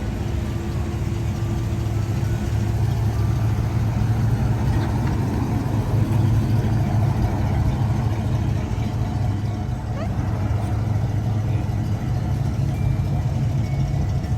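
Car engines running in street traffic: a steady low engine hum throughout.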